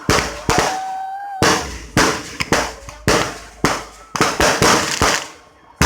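Fireworks going off in a rapid, uneven series of loud bangs, about two a second, each followed by a short hiss.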